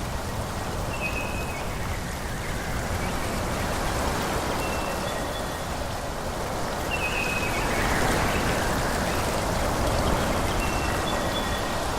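Forest ambience: a steady rushing of wind through trees, with brief high bird chirps every few seconds.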